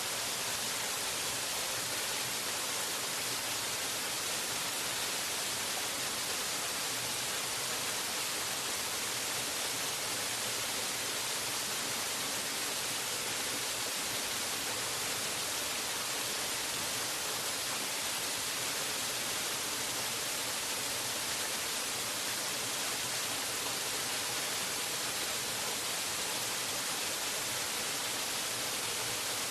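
Waterfall: a steady, unbroken rush of falling water, bright and hiss-like, with no change in level.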